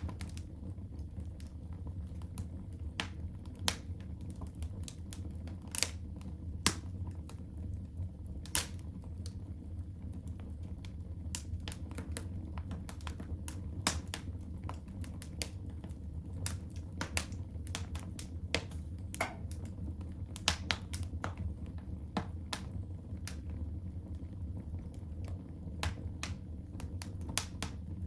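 Wood fire crackling in a fireplace: irregular sharp snaps and pops, a few of them louder, over a steady low rumble.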